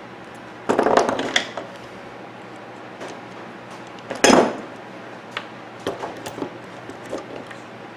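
Small metal and aluminum fan parts clattering and clinking as they are handled and set down. There is a cluster of clicks about a second in and one sharp knock a little past four seconds.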